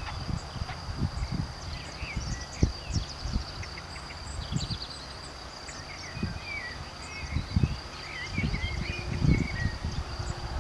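Outdoor ambience: birds chirping and twittering over a steady high-pitched tone, with gusts of wind buffeting the microphone.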